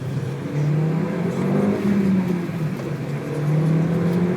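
2001 Audi TT quattro's 5-valve turbocharged four-cylinder engine accelerating. The engine note climbs, drops back about two seconds in as at an upshift of the manual gearbox, then climbs again.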